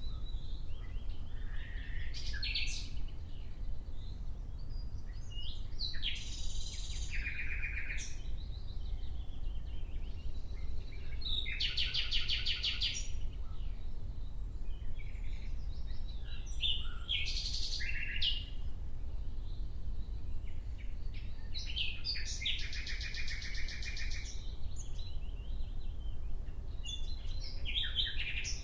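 Nightingale singing in separate phrases of a second or two, a few seconds apart; some phrases are rapid runs of repeated notes. A steady low rumble lies underneath.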